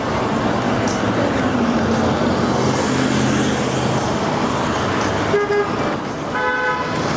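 Street traffic with motor-vehicle engines running close by. Two short horn honks come near the end, about a second apart.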